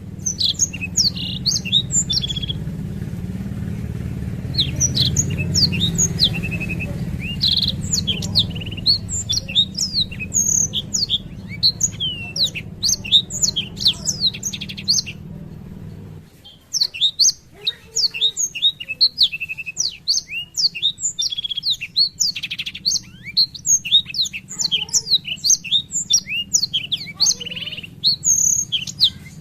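Black-throated canary (blackthroat) singing a long rolling song of fast, varied high twitters and slurred whistles, broken by short pauses. A low steady hum runs underneath and stops suddenly about halfway through.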